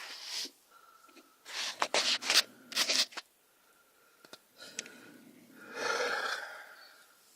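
A sleeping man snoring: a series of rough, snorting snores with quiet gaps between them. The sharpest ones come about two and three seconds in, and a longer, drawn-out snore comes around six seconds in.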